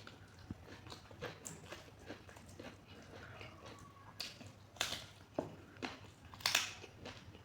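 Close-up eating sounds of a person eating spicy chicken curry: wet chewing and lip-smacking clicks throughout, with a few louder breathy bursts between about four and seven seconds in.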